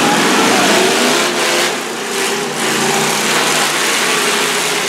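Demolition derby cars' engines revving and running together, their pitch rising and falling over a dense, steady din.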